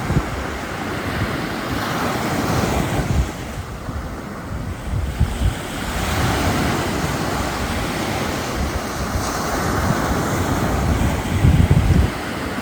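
Ocean surf breaking and washing up the beach under a strong, gusty wind, with gusts buffeting the microphone in low rumbles. The hardest gust comes near the end.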